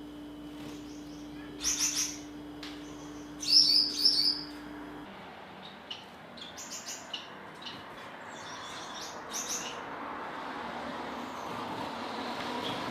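Lovebird giving high-pitched chirps in quick bursts, loudest about two and four seconds in, then fainter scattered chirps.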